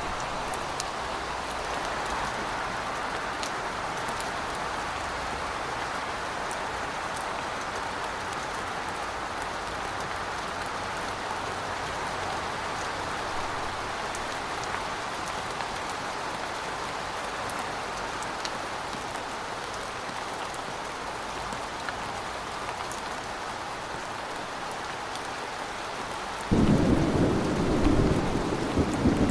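Steady heavy rain hissing, then a loud rumble of thunder that breaks in suddenly near the end.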